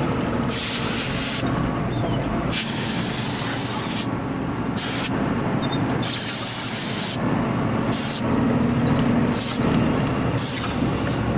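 Truck's diesel engine running with road rumble heard inside the cab, while patches of hissing come and go every second or so.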